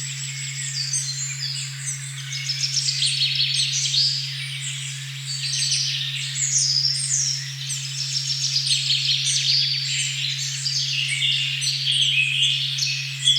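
A steady pure 136.1 Hz tone, the 'OM' frequency, hums without change under a dense forest dawn-chorus-like mix of many birds singing, with overlapping chirps and trills.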